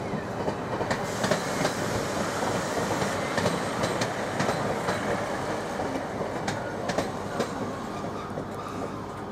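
Northern Class 156 diesel multiple unit rolling slowly into the station: a steady rumble with irregular clicking of the wheels over rail joints and pointwork.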